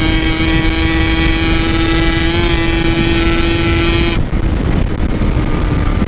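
Yamaha RX-King single-cylinder two-stroke engine running at steady high revs under way, with heavy wind rumble on the microphone. About four seconds in the engine note drops away abruptly as the throttle is closed. The rider says the engine is knocking badly.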